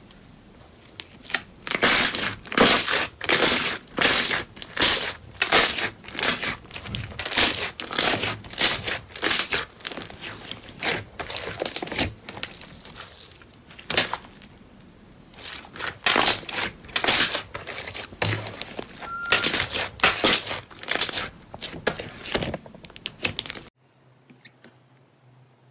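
Slime being squeezed and pressed by hand, crackling and crinkling in repeated bursts about a second apart. It cuts off suddenly near the end, leaving a faint hum.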